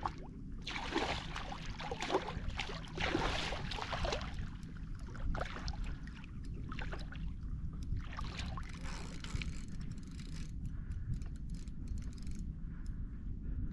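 Water sloshing and splashing around a kayak hull over a steady low rumble of wind on the microphone. The splashing comes in surges, strongest in the first few seconds and weaker after, and light quick ticking comes in near the end.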